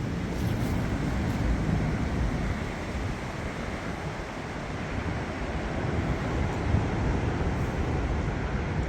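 Storm-force wind gusting, a rushing noise heavy in the lows with wind buffeting the microphone. It eases a little around the middle and builds again toward the end.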